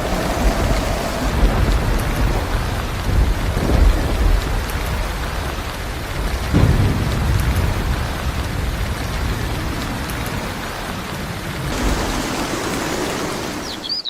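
Heavy rain pouring steadily, with low rumbles of thunder that swell about four seconds in and again at about six and a half seconds.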